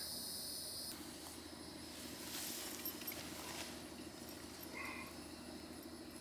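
Insects chirping steadily, cutting off suddenly about a second in, followed by faint rustling with a couple of light clicks.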